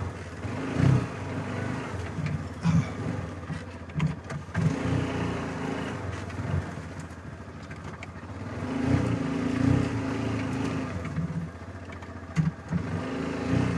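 Yamaha Rhino side-by-side's engine running and revving up and down as it crawls through the crossing, swelling twice, with several sharp knocks from the vehicle jolting over rough ground.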